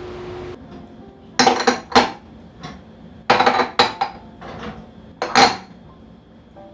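Kitchen dishes and utensils clattering: a series of sharp clinks and knocks, some in quick clusters, as things are handled and set down. A steady humming cuts off about half a second in.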